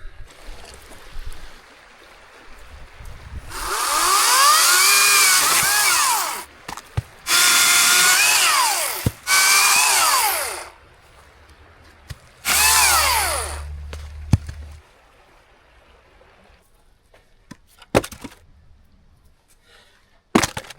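Chainsaw cutting into a tree stump in four bursts, each lasting one to three seconds, its pitch rising and falling as the chain bites and frees. A few sharp knocks follow near the end.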